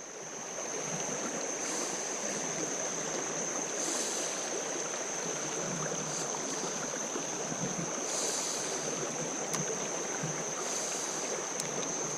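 Fast-flowing creek water rushing steadily over rocks, with a thin steady high whine on top.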